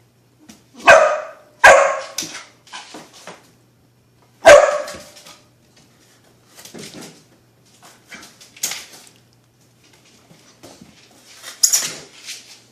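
Dog barking, with three loud barks in the first five seconds, then softer barks and yips here and there through the rest.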